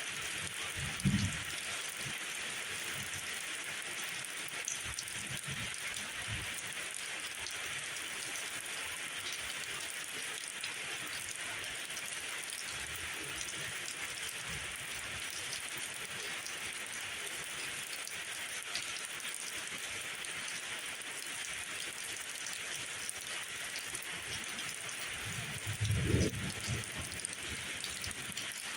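Steady rain falling and pattering on surfaces, an even hiss, with a brief low thump about a second in and a longer low rumble near the end.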